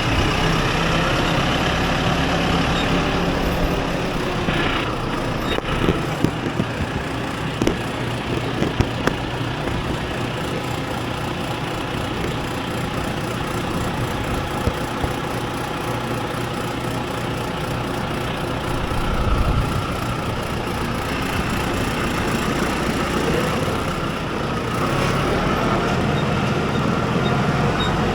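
A vehicle engine running steadily, with a few short clicks and knocks about five to nine seconds in.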